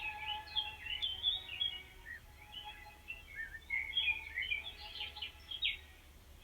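Several small birds chirping and twittering at once, quick overlapping calls, busiest in the first couple of seconds and again about four to six seconds in.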